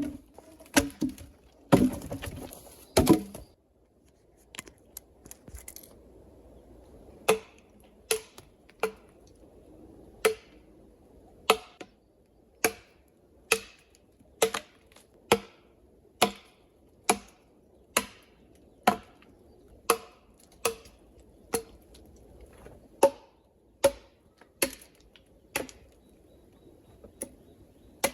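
Chopping blows into wood, a sharp knock about once a second with a short ring after each, after a few louder, irregular knocks and scrapes at the start.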